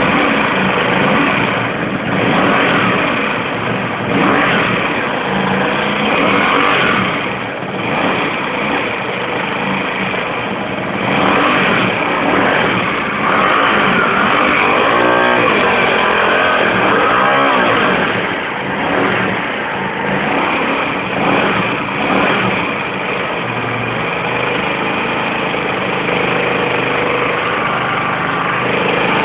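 Kasinski Comet 250 motorcycle's V-twin engine running, its revs changing now and then, with a strange noise in it that the owner wants to show.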